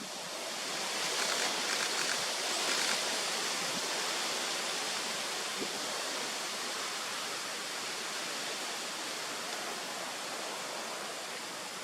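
Steady rush of flowing water, swelling a little over the first few seconds and then holding steady.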